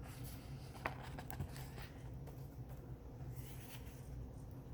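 Soft rustling and handling of a picture book's paper pages, with a sharp click about a second in, over a low steady room hum.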